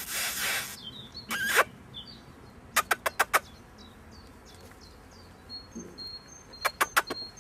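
Small birds chirping faintly, with two quick runs of sharp clicks or taps, about five in a row each time, and a short hiss at the start.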